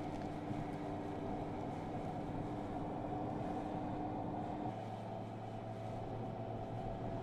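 Mercedes-AMG S 65 Coupe's twin-turbo V12 running steadily at a cruise, with road noise underneath; its note drops lower about two-thirds of the way through.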